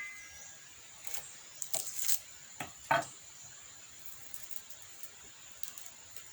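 A few scattered short knocks and clicks, the loudest about three seconds in, over a faint steady high-pitched tone.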